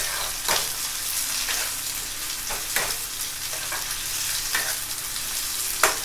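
Onions frying in hot oil in a pan, a steady sizzle, with a spoon scraping and clinking against the pan every second or so as they are stirred; the sharpest clink comes near the end.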